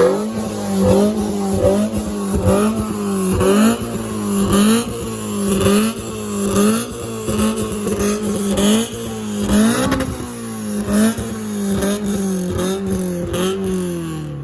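Car engine held at high revs, its pitch dipping briefly and coming back up about once a second as the throttle is worked.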